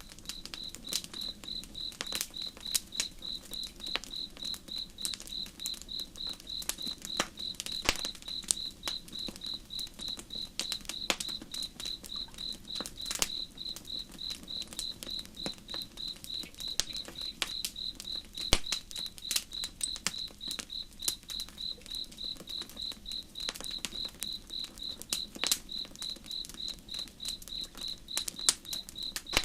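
Campfire crackling with irregular sharp pops and snaps, over a cricket chirping in a steady, fast, even pulse.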